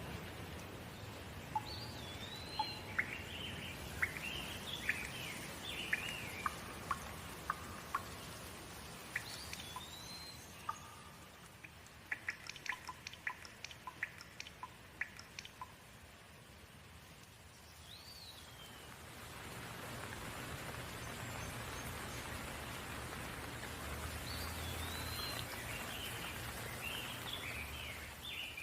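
Rain falling with songbirds chirping over it. Near the middle there is a run of sharp drip-like ticks. After a quieter spell, the rain grows louder about two-thirds of the way in.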